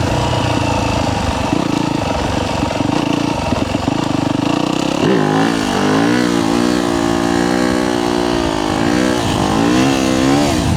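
Yamaha YZ250F dirt bike's 250 cc four-stroke single-cylinder engine running under a rider holding a knee-knocker wheelie. For the first five seconds it is mixed with a rushing noise. About five seconds in the engine note turns strong and clear, its pitch rising and falling over and over as the throttle is worked.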